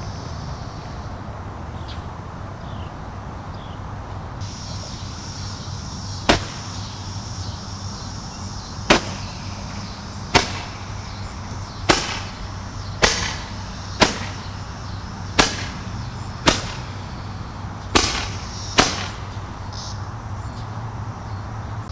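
Consumer fireworks going off: ten sharp bangs, one every one to two and a half seconds, over a steady high hiss.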